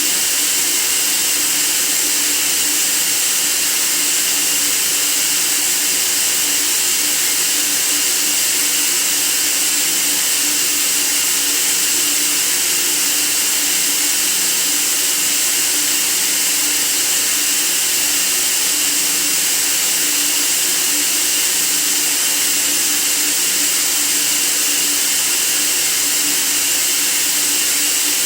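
Steady white noise: an even, unbroken hiss that is strongest in the high range, with a faint low hum underneath.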